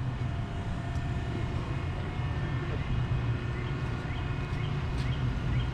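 A vehicle engine idling steadily with a deep, even rumble. Faint short high chirps come and go above it.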